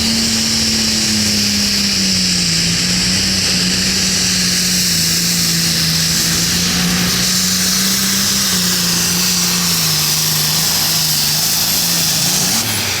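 A Hot Farm class pulling tractor's turbocharged diesel engine runs flat out, dragging the sled, with a strong hiss high above the engine note. The engine note sags slowly with a few dips as the load builds, then drops away suddenly near the end as the pull finishes.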